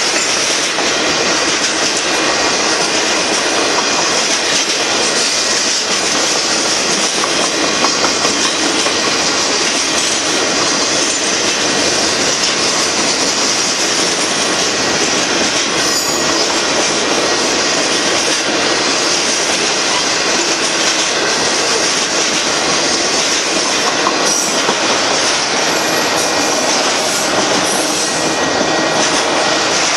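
Union Pacific freight train of boxcars and auto-rack cars rolling past: a steady, loud noise of steel wheels running on the rails.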